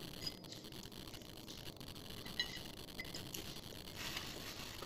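Faint eating sounds: chewing, with a few small clicks, the sharpest about halfway through, and a brief rustle near the end.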